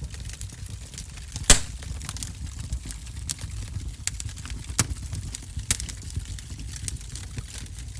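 Wood fire crackling in a fireplace: irregular sharp pops and snaps over a low, steady rumble of burning, with one loud pop about a second and a half in.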